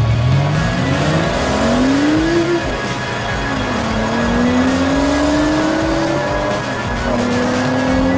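Audi RS4's twin-turbo V6 accelerating hard from a standing start, its pitch rising through the gears with two upshifts, about two and a half seconds and six seconds in.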